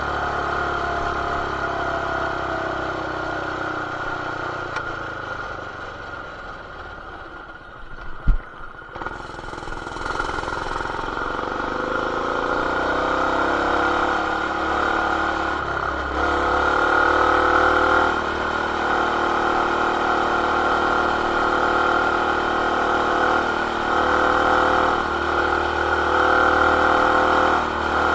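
BT200X mini bike's single-cylinder engine with a stage 1 intake, header and RLV exhaust, heard through an action camera's plastic case. It winds down for several seconds, a sharp knock comes about eight seconds in, then it revs back up and holds at steady high revs.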